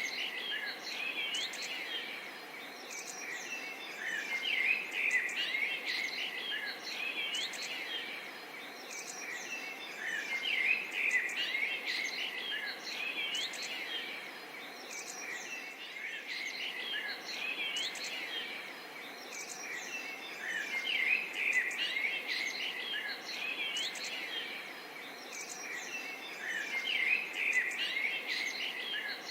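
A chorus of many birds chirping and calling at once, dense and continuous with short gliding notes, the activity swelling and easing every few seconds over a faint background hiss.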